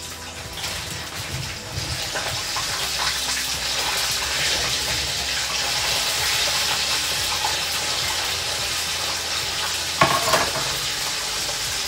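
Food sizzling and frying in a pan while it is stirred, a steady hiss that builds over the first couple of seconds. About ten seconds in, a sharp clank rings briefly.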